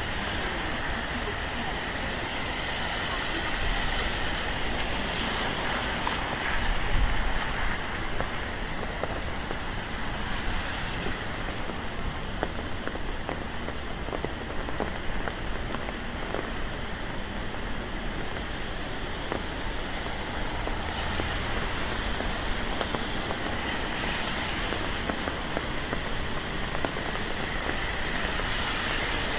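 Steady rain falling on a city street: an even hiss with scattered sharp drops.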